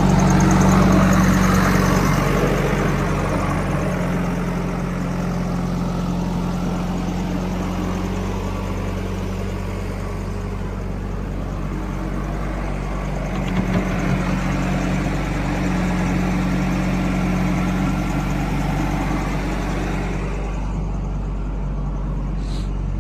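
Diesel engine of heavy farm or construction machinery running steadily, its note swelling and easing a little.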